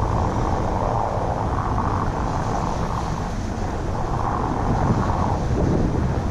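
1995 Ford F-150 4x4 pickup driving through snow, its engine and tyres making a steady rumble that swells twice, with wind noise on the microphone.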